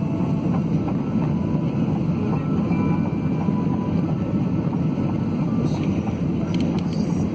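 Steady noise of a jet airliner heard from inside the passenger cabin: engines and rushing air as one low, even rumble. A couple of faint clicks sound near the end.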